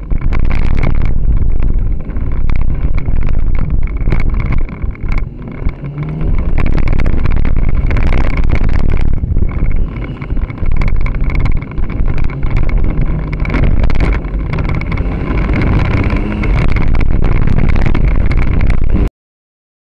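Competition car's engine running hard through a slalom run, heard from a camera fixed at the side window. Heavy wind buffeting and vibration rattle make it loud and distorted, with several brief dips in level. The sound cuts off suddenly near the end.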